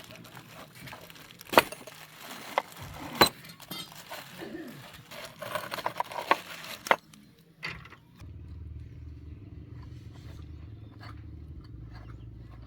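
Sharp metal clanks and knocks from tools and engine parts being handled, the loudest two about one and a half and three seconds in. About eight seconds in, a steady low drone with light ticking starts.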